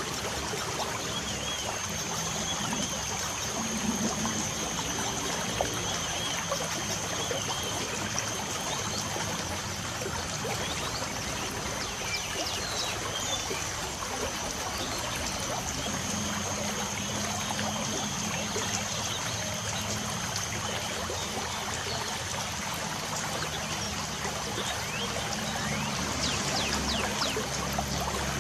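Light rain falling steadily with water trickling, a steady thin high tone running underneath, and birds chirping faintly now and then, a few chirps together near the end.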